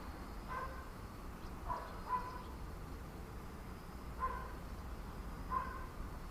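An animal calling five times at irregular intervals, short pitched calls about every second or two, over a faint steady high insect trill and a low background rumble.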